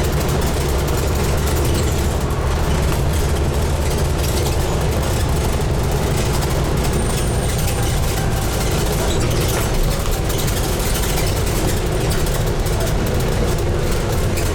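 Scania N250UD double-decker bus's five-cylinder diesel engine running steadily, heard from inside the bus as a low, even drone with cabin rattle and road noise.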